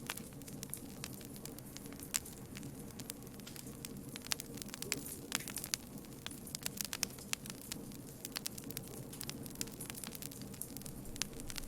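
Wood campfire burning with a steady low rumble and frequent irregular crackles and pops.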